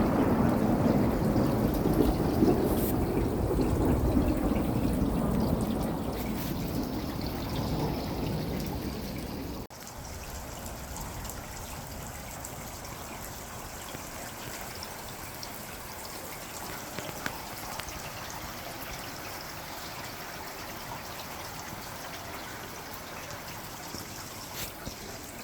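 A heavy storm downpour falling, as a steady wash of noise; about ten seconds in it cuts to a quieter, steady trickle of running water.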